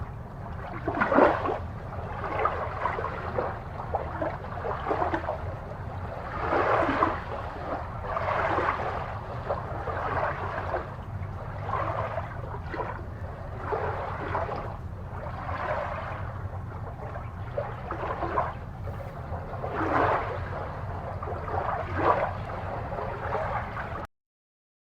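Aquarium water gurgling and splashing in uneven surges every second or so, over a steady low hum. The sound drops out completely for under a second near the end.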